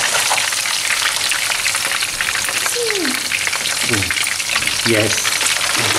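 Whole lobsters sizzling and crackling in hot olive oil and garlic in a frying pan, with a steady, even crackle throughout.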